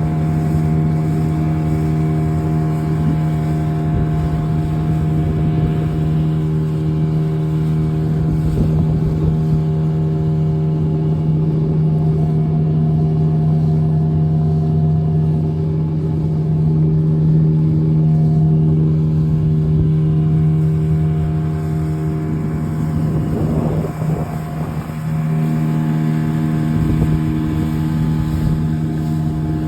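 Boat engine running steadily under way, a constant hum with a steady pitch; the hum breaks off briefly about three-quarters of the way through, then picks up again at the same pitch.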